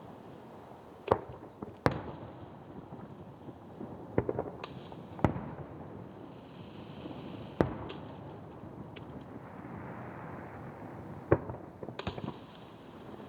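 Fireworks shells bursting over the sea, sharp booms every second or few, each followed by a rolling echo, with crackling from the bursts in between.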